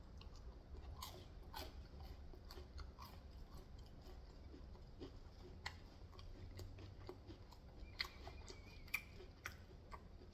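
Faint, close-miked chewing as a person eats: soft, irregular mouth clicks, a few every second.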